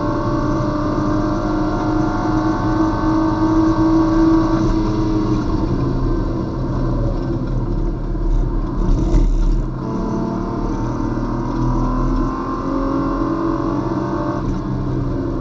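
Race car engine heard from inside the cabin at speed on track. The engine note climbs under acceleration, drops about four to five seconds in as the car slows for a corner, then rises again as it powers out. A short noisy burst comes about nine seconds in.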